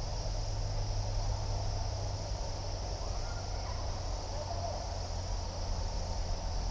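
Steady chorus of crickets and other insects with a constant high-pitched trill, over a low steady rumble, with a few faint calls about three and four and a half seconds in.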